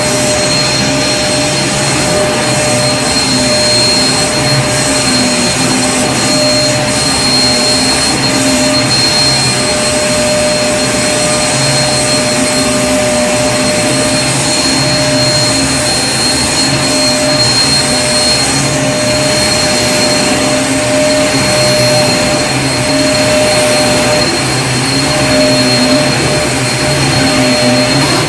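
Vacuum cleaner running steadily: a loud, even rushing hiss with a constant motor whine, a higher tone and a low hum that wavers slightly.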